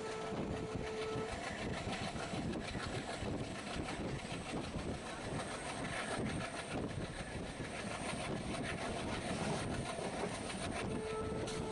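Passenger train running along the rails, heard from aboard: a steady rumble and rattle, with a single steady tone sounding for about a second at the start and again near the end.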